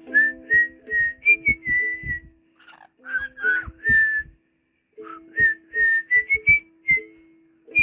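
A melody whistled in clear held notes, with short plucked string notes keeping time beneath it. The tune breaks off for about half a second midway and then carries on.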